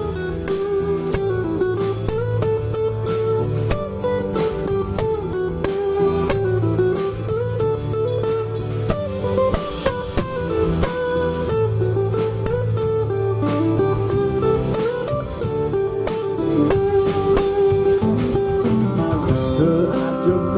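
Guitar-led instrumental break in a song: a lead guitar plays a melody with bent notes over bass and drums.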